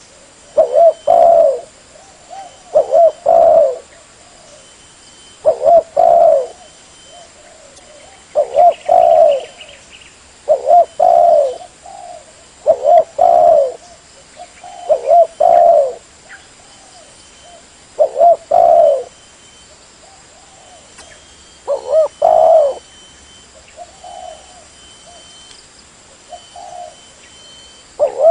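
Spotted dove cooing as a lure call: loud phrases of two or three coos, repeated about every two seconds. After a short pause about two-thirds of the way through, softer coos follow.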